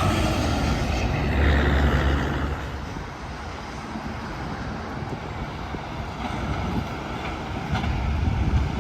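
Highway traffic: a big truck passing close, its low engine drone and tyre noise loud for the first couple of seconds and then dropping away into a steady roar of traffic, with another low drone swelling near the end.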